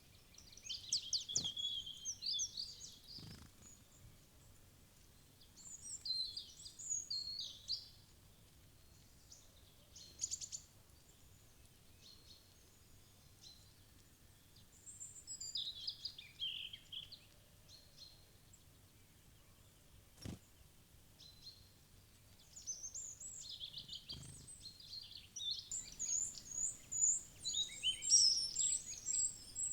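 Small wild songbirds chirping and calling in short bursts, with a few single sharp taps. Near the end a quick run of short, high repeated notes.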